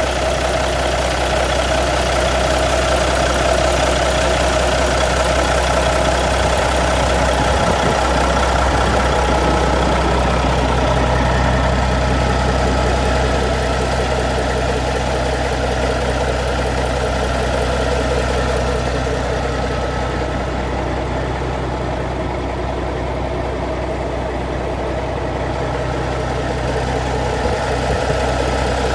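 Caterpillar 3406B inline-six diesel in a Peterbilt 379 dump truck idling steadily.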